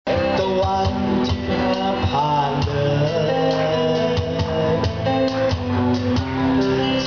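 Live band music with guitar, a melody line wavering over steady chords.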